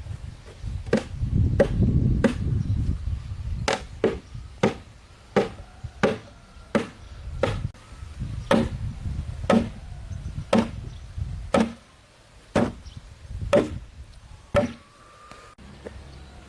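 A blade chopping into wood with sharp, regular strokes, about one a second, stopping near the end.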